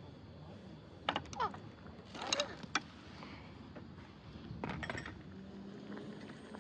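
Camp cooking gear being handled: clicks and light metallic clinks in three short clusters, about a second in, a little after two seconds, and near five seconds.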